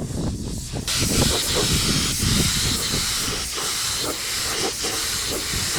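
A steady hiss starts suddenly about a second in and keeps going, over an uneven low rumbling noise.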